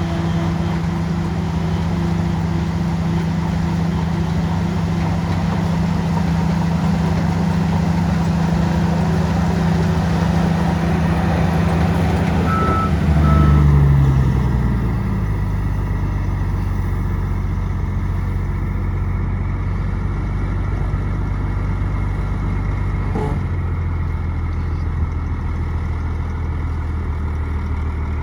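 Heavy diesel engine of earthmoving machinery running steadily under load. About halfway through it surges briefly, then its pitch falls and it settles to a lower, slower running note. Two short high beeps sound just before the surge.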